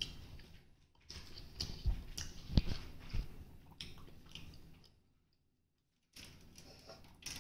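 A person chewing a mouthful of homemade cheese pizza, with irregular mouth clicks and smacks. About five seconds in, the sound cuts out for about a second, then the chewing resumes faintly.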